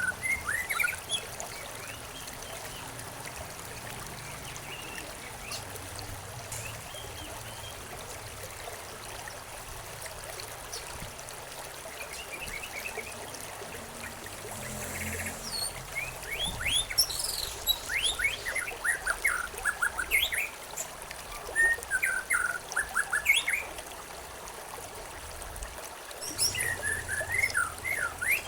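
Small birds chirping in quick runs of short, falling notes over a steady trickle of running water. The chirping is sparse at first and busiest in the second half.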